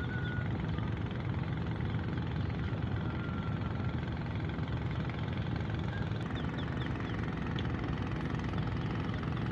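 Ferry's diesel engines running steadily with a low, even rumble as the ship manoeuvres slowly to berth.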